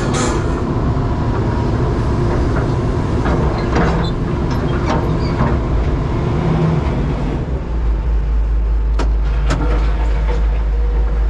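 Heavy diesel engine running steadily with a deep low rumble that swells strongly about three-quarters of the way through. A couple of sharp knocks come just after that.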